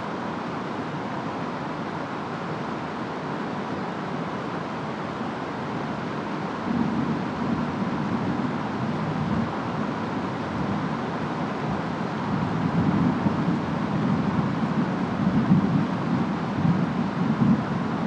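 Steady rain and wind noise of a distant thunderstorm, with low rolling thunder that swells in about a third of the way in and rumbles on, louder, through the second half.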